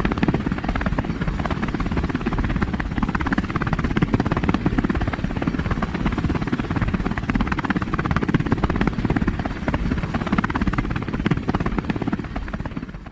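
Helicopter rotor sound: a loud, fast, steady chopping that fades out near the end.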